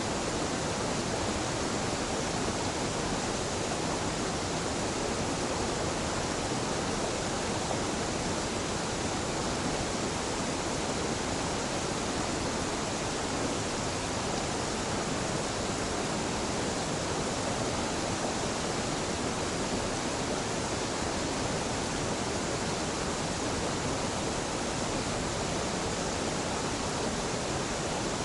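Gentle mountain waterfall pouring steadily into a stream: a constant, even rush of falling water that never changes.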